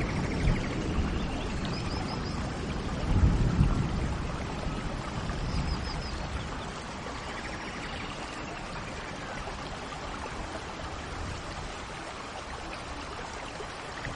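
Steady rain with a low rumble of thunder in the first few seconds that fades away, and a few short bird chirps now and then.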